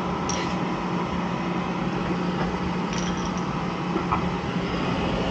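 Oil furnace burner running steadily just after lighting off, freshly cleaned and fitted with a new nozzle: an even roar with a steady low hum. A few faint metallic clicks.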